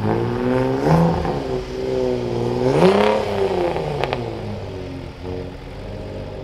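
Car engine revving twice, rising and falling in pitch, the second rev higher and longer, then dropping back to a steady idle with a couple of sharp cracks as it settles.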